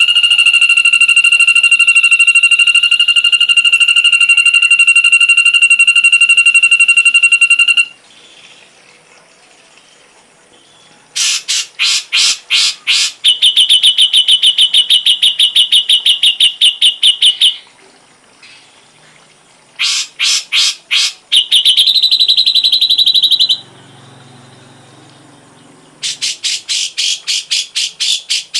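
Ashy drongo song in loud, rapid trilled phrases separated by pauses of two or three seconds. A long steady trill comes first, then short rattles, each followed by a higher trill, and another rattle near the end.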